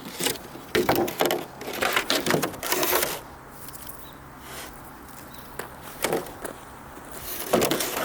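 Wood knocking and clattering in irregular bursts, like pieces of firewood being handled, over the first three seconds and again briefly near the end.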